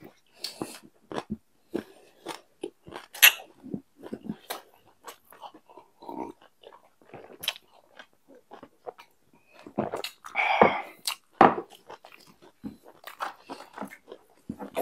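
Close-miked chewing and wet mouth sounds of people eating noodles, with scattered clicks and smacks and one louder noisy sound about ten seconds in.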